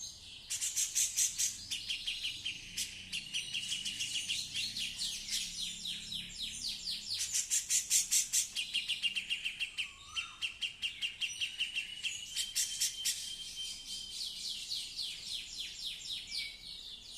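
A female cucak jenggot (grey-cheeked bulbul) singing continuously: long runs of rapid, high chattering notes and trills with only brief pauses.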